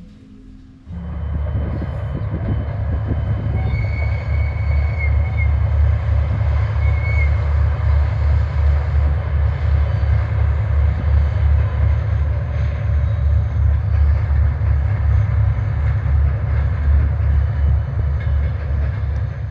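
Diesel train running with a deep, fast-pulsing engine throb that comes in suddenly about a second in. A short high squeal sounds around four seconds in and again briefly near seven seconds.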